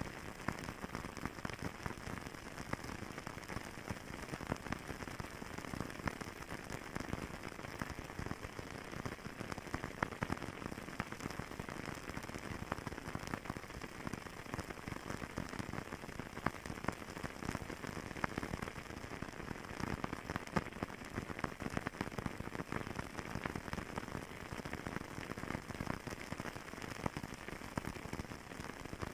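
Fireplace fire crackling steadily: a dense, unbroken run of small pops and snaps over a soft hiss.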